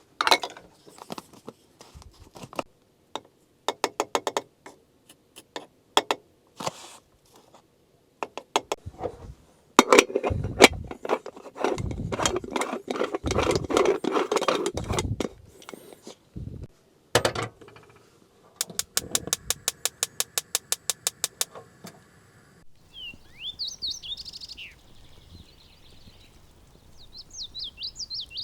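A string of irregular knocks and clicks, with a rougher clattering stretch near the middle and then a quick, even run of clicks, about six a second. After that, wild birds chirp, with short falling calls near the end.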